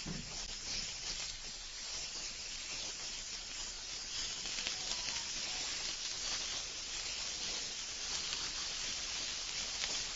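Food frying in a pan on a gas stove: a steady sizzle with light crackling.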